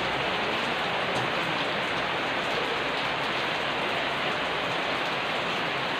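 Steady rain falling, an even hiss with no change in loudness.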